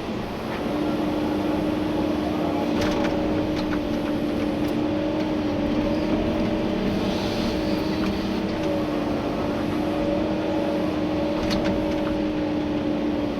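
Komatsu PC290-11 excavator's diesel engine and hydraulics running steadily under working load, heard from inside the cab. A steady whine comes in about a second in, with a few faint clicks over it.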